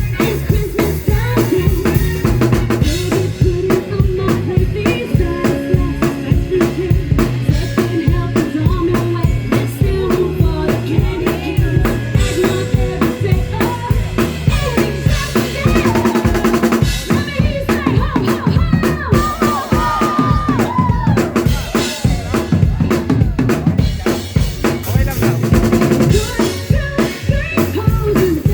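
Live band music played over loudspeakers, with a full drum kit (kick, snare and rimshots) keeping a steady beat under bass and other instruments.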